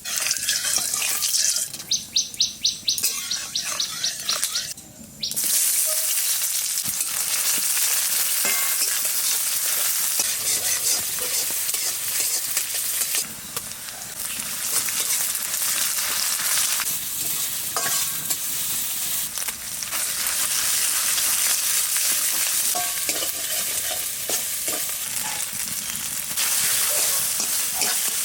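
Food frying and sizzling in a hot pan while it is stirred. A quick run of rhythmic scrapes comes about two seconds in, the sizzle dips briefly about five seconds in, then it carries on steadily.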